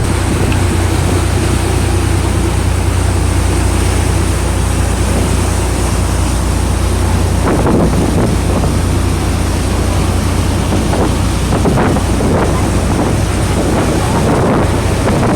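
Water shuttle boat's engine running with a steady low drone, with wind buffeting the microphone.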